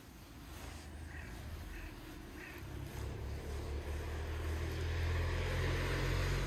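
A motor vehicle's engine drawing closer, its low hum growing steadily louder. A crow caws three times early on, about a second apart.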